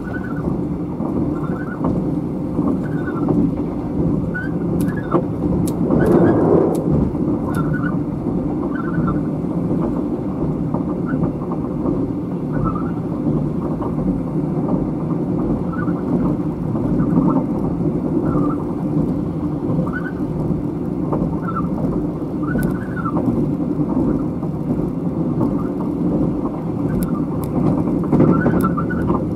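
Inside a State Railway of Thailand sleeper car on an express train running at speed: a steady, loud rumble of the wheels and running gear on the track. Short higher squeaks come and go, and the rumble briefly swells louder about six seconds in.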